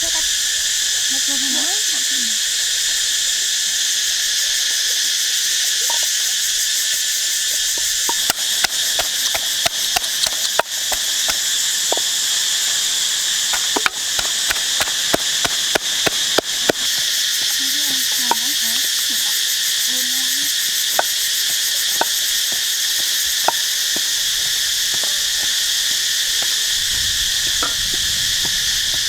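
Loud, steady insect chorus that starts abruptly and holds throughout. From about eight seconds in, irregular sharp knocks come and go over it, at times several a second.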